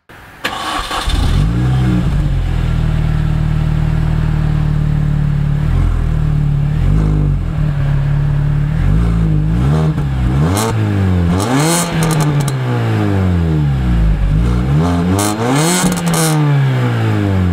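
Mini Cooper S's supercharged 1.6-litre four-cylinder engine heard at the twin centre exhaust. It idles steadily, then is revved in a series of quick blips that rise and fall, coming faster toward the end.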